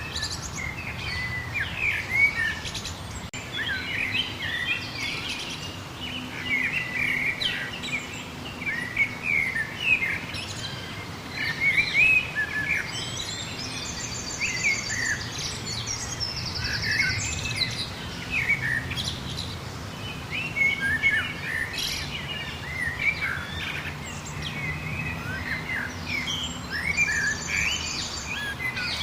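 Chorus of many songbirds chirping and warbling, with quick trilled phrases now and then.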